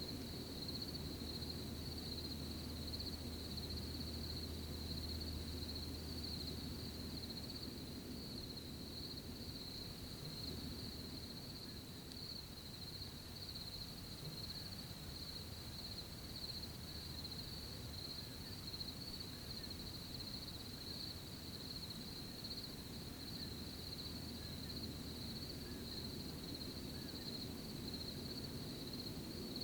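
Crickets chirping in a steady, unbroken high trill, over a soft low rustling night ambience.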